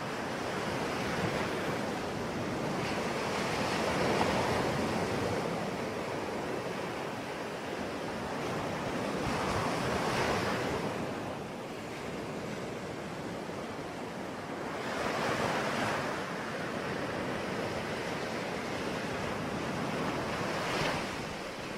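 Sea waves breaking and washing onto a shore in a continuous surf wash, rising in four swells about every five or six seconds.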